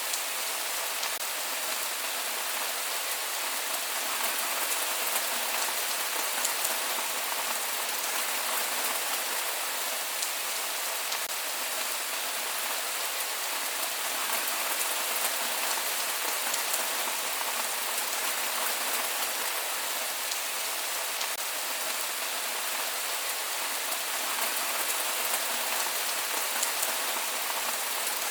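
Steady rain falling on a surface, with fine patter of individual drops and no thunder.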